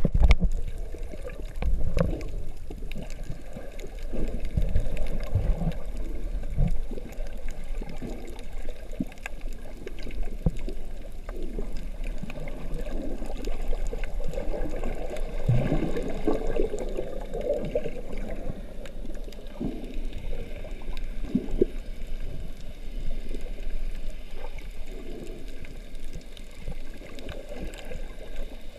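Water sloshing and gurgling, heard muffled with most of the sound low in pitch, as through an underwater camera housing, with scattered light knocks.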